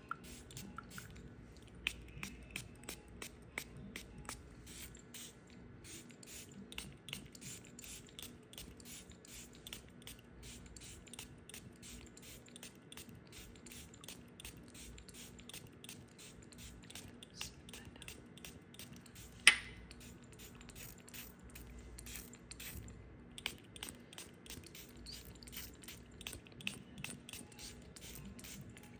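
Crisp crackling of a knife cutting through dry soap: many small cracks in quick succession, with one sharp, much louder click about two-thirds of the way through.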